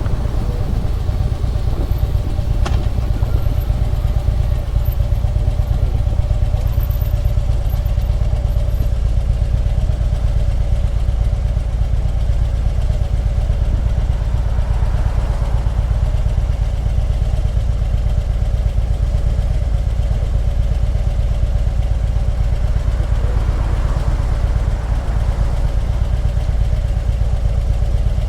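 Harley-Davidson Electra Glide's V-twin engine running steadily at low revs, a deep even rumble with no revving.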